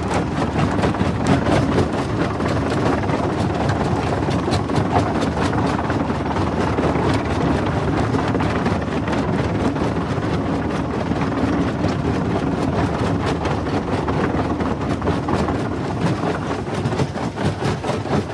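Jaw crusher running and breaking stone: a steady heavy mechanical din full of rapid, irregular cracks and knocks of rock being crushed between the jaws.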